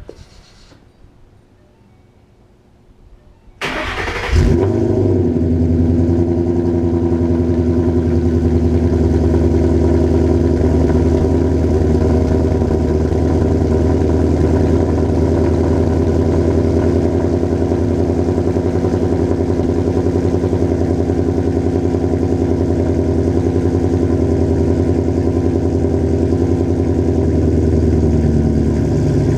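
2011 Mustang GT's 5.0-litre V8, breathing through Stainless Works headers and exhaust, starting up: a short crank about three and a half seconds in, a quick rev as it catches, then a steady idle.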